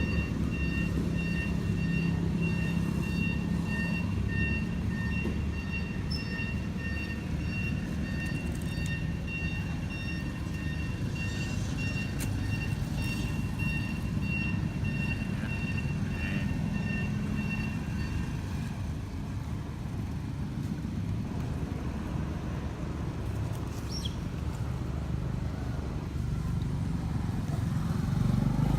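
A steady low rumble with a steady high-pitched tone over it; the tone stops about two-thirds of the way through while the rumble carries on.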